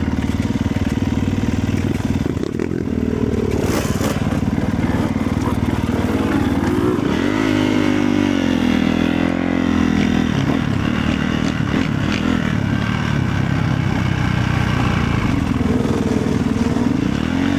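Motorcycle engine running under way, its pitch dipping and climbing again about halfway through as the throttle changes.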